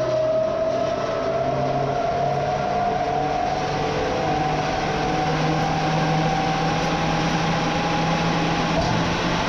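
A vehicle engine running steadily under load, its pitch climbing slowly as it gathers speed.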